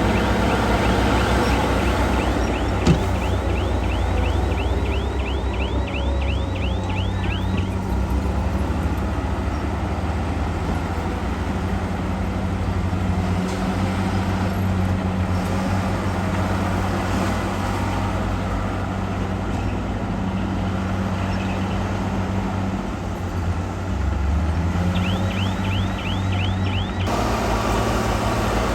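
Heavy earthmoving machinery's diesel engine running steadily, with a rapid train of high squeaks, about four a second, through the first several seconds and again briefly near the end. A single sharp knock about three seconds in.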